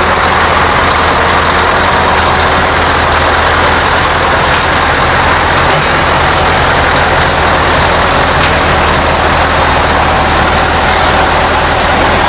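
Competition pulling tractor's engine running at full power, a loud, steady din with no letup, with a few sharp clicks.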